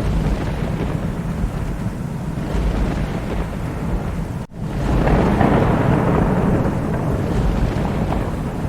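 Steady heavy rain with deep rolling thunder rumbling throughout. About halfway through, the sound drops out for an instant, then swells louder with a fresh roll of thunder.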